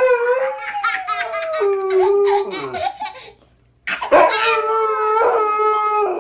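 A dog howling in long drawn-out notes that slide down in pitch, with a short pause about three and a half seconds in before it howls again, mixed with a baby's laughter.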